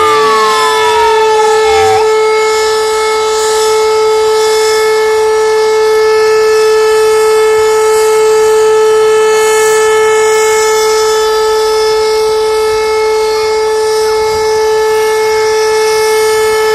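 A siren holds one steady tone. A second siren tone slides down in pitch and cuts off about two seconds in.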